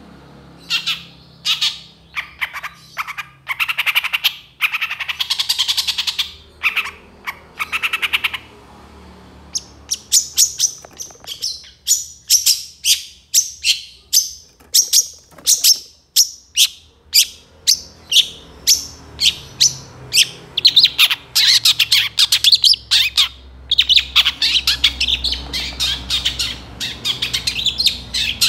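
Long-tailed shrike (cendet) in full song: scratchy, chattering phrases, a short pause, then a long run of sharp, separate piercing notes about two or three a second, turning back to dense chattering near the end.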